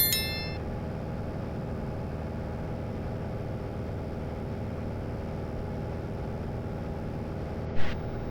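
Steady drone of a light airplane's piston engine and propeller, heard from inside the cabin in cruise. A short high electronic beep sounds right at the start, and a brief soft puff of noise comes near the end.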